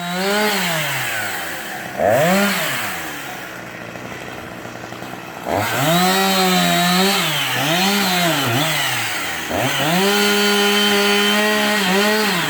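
Chainsaw engine revving up and down several times, easing off to a lower, quieter run for a couple of seconds, then held steady at high revs for the last two seconds or so.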